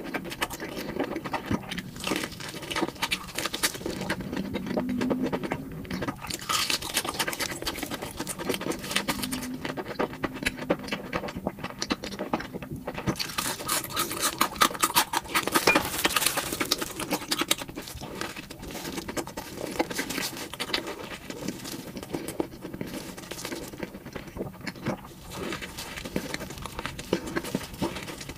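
Close-miked chewing of crunchy fried food, crackling steadily and louder in a couple of stretches.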